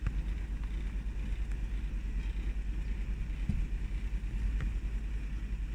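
Safari 4x4's engine running with a steady low rumble, heard from inside the vehicle.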